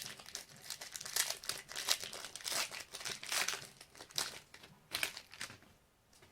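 Wrapper of a basketball trading card pack crinkling and tearing as it is opened by hand, in irregular crackly bursts that die down near the end.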